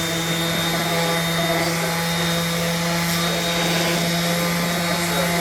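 Bosch orbital sander running steadily while sanding wood, a constant motor hum over a hiss.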